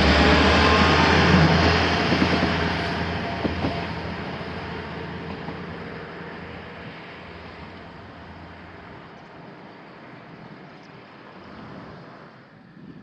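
A train running past and moving away, the rumble of its wheels on the rails loud at first, then fading steadily over about ten seconds.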